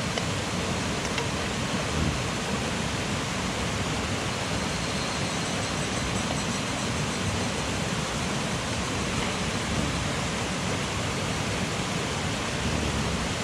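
Mountain stream rushing steadily, an even wash of water noise.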